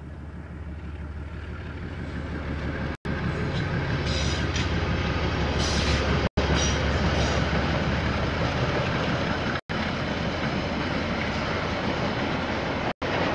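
KiwiRail diesel train approaching and passing, its low rumble building steadily louder over the first half and then holding, with brief high wheel squeals around the middle. The recording cuts out for an instant about every three seconds.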